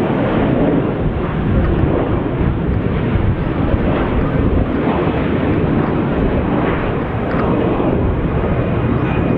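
Jet airliner's engines during takeoff: a loud, steady rush of noise with no pauses.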